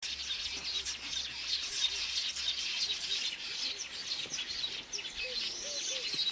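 Many small birds chirping and twittering together in quick overlapping notes. A run of short, low, arched calls repeats about twice a second in the second half.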